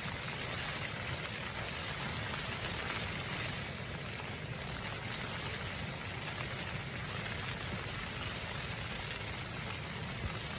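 A steady hiss with a fine, dense patter, like rain or wind-driven snow hitting a surface, over a low rumble.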